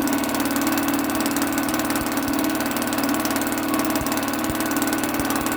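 1974 British Seagull 40 Plus outboard's single-cylinder two-stroke engine running steadily at an even speed, purring, with rapid regular firing strokes. It is running on a 25:1 fuel mix through a newly fitted needle jet.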